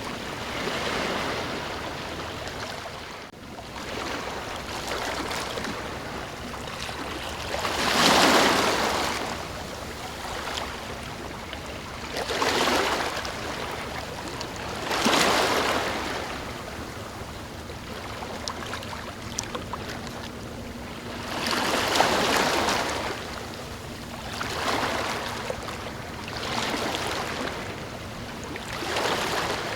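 Ocean waves breaking and washing in, a steady wash of surf that swells with a new wave every few seconds, the biggest about eight seconds in.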